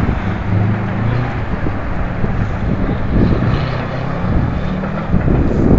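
Car engine running at steady revs, with wind buffeting the microphone.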